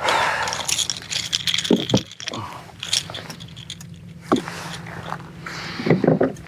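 Handling noise as a landed redfish is held on a plastic kayak: scraping, rattling and clicking of fish, hooks and gear, with a rush of noise at the start and a few short grunts.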